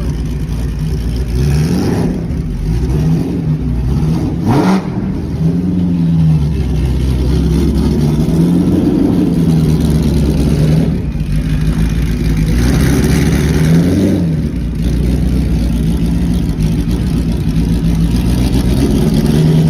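Ford GT40's V8 engine running just after a cold start, its idle rising and falling with light throttle blips. There is one quick rev about four and a half seconds in.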